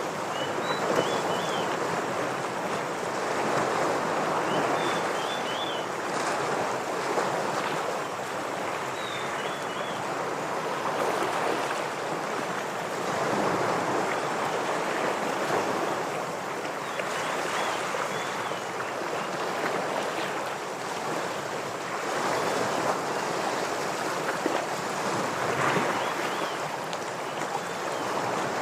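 Ocean waves washing against shoreline rocks, a continuous rushing surf that swells and eases every few seconds. Short, high bird chirps come in quick little phrases several times over the surf.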